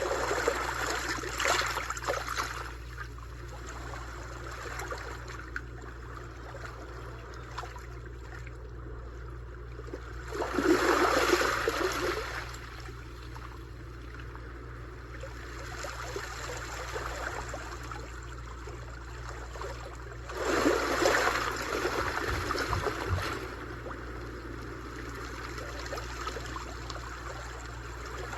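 Sea waves washing onto a shore. Three waves break and swell up louder, at the start, about ten seconds in and about twenty seconds in, with a softer wash of water between them and a steady low rumble underneath.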